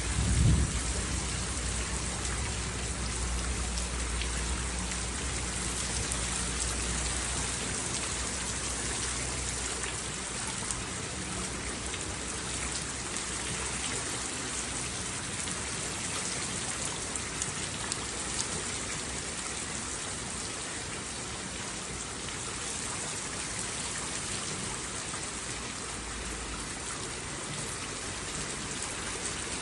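Steady heavy rain falling on a surface, a dense even patter. A brief low thump comes about half a second in, and a low rumble sits under the rain for the first ten seconds.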